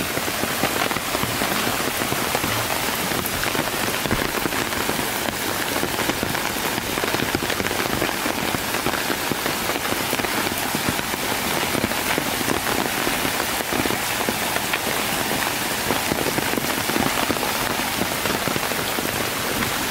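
Steady rain with a dense patter of drops striking an umbrella close overhead.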